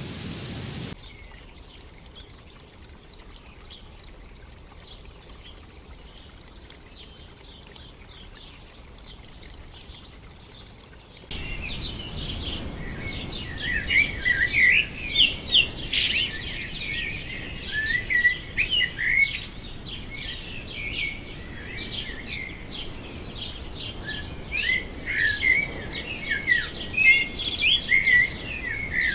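Faint hiss for the first ten seconds or so, then a sudden switch to a dense chorus of many birds chirping and whistling, with quick, high, overlapping calls and louder bursts that come and go.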